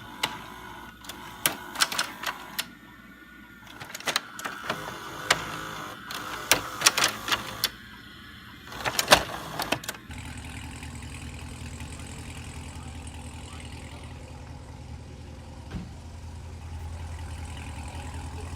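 A run of sharp, irregular clicks and knocks, then from about halfway a car engine running steadily and low-pitched.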